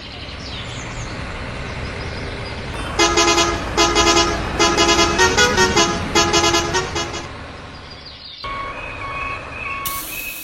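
Truck horn sounding a rapid series of toots, a multi-tone horn pattern lasting about four seconds, over a steady engine rumble. Near the end, a two-tone beeping switches back and forth.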